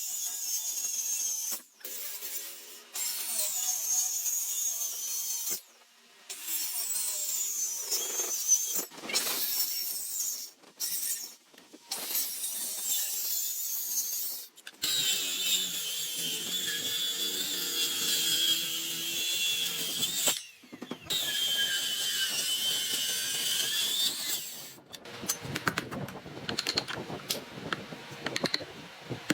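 Handheld power tool working wood. It runs in a series of high-pitched whining spells, stopping and restarting several times, and the pitch sags as it bites. Near the end a rapid clatter of clicks takes over.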